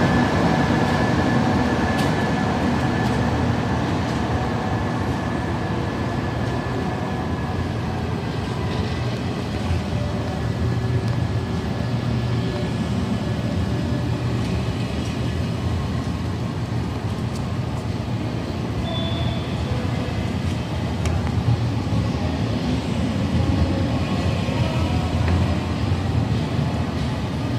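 Passenger train running through the station with a steady rumble, and a thin high tone that fades out over the first several seconds.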